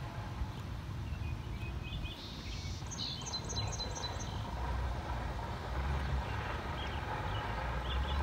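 A small bird chirps a quick run of about five short high notes around three seconds in, with a few scattered chirps around it. Beneath it runs a steady low rumble.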